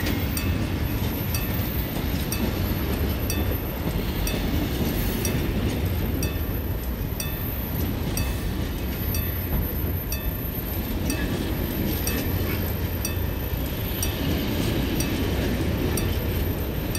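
Freight train wagons, mostly container flat wagons, rolling past: a steady low rumble of wheels on rails with regular clicks a little more than once a second as the wheels cross the rail joints.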